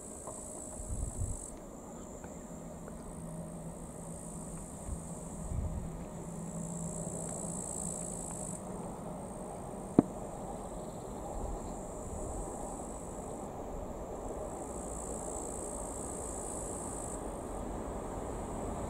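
Insects trill in high-pitched phrases of a few seconds that swell and fade. Under them a low rumble slowly grows louder: the train approaching the crossing. There is one sharp click about ten seconds in.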